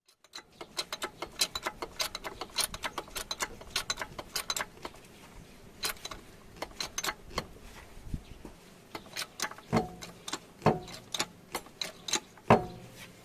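Hand tools clicking and clinking against the metal of a car's rear axle mount as a special press tool is worked to spread the mounting so the torsion beam and its new bushing will go in. The clicks come irregularly, a few per second, with a couple of heavier knocks in the second half.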